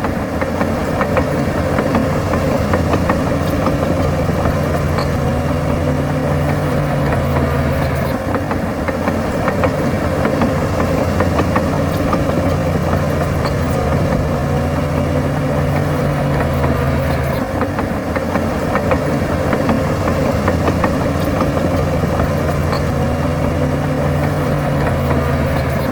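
Heavy diesel engine of earthmoving machinery running steadily, its note stepping up and down every several seconds as the load or throttle changes.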